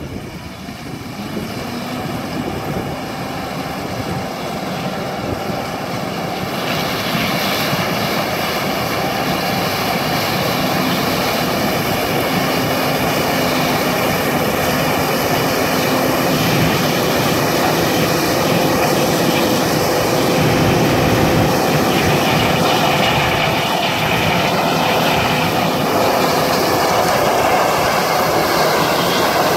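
Farm harvest machinery running steadily: an engine drone with several steady whining tones, growing louder over the first several seconds and then holding.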